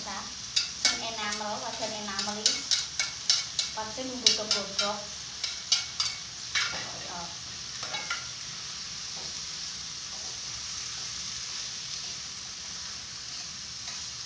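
Chicken rica-rica sizzling as it stir-fries in a pan on a gas stove, with a spatula scraping and clacking against the pan in quick strokes. The clacking stops about eight seconds in and the steady sizzle goes on alone.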